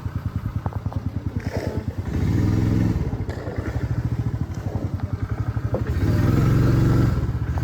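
A small engine running with a rapid, even thumping beat. It swells louder about two seconds in, again around six seconds in, and once more near the end, as the throttle is opened.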